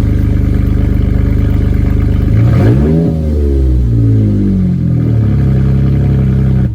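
Chevy Colorado ZR2's 3.6-litre V6 running loud with its stock exhaust removed. It idles, is revved up and back down once about two and a half seconds in, blipped a second, smaller time, then returns to idle and cuts off suddenly near the end.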